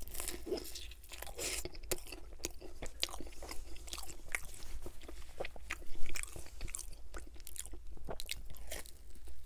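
Close-miked biting and chewing of thick pizza crust: a bite at the start, then chewing with many small crunchy crackles and one louder crunch about six seconds in.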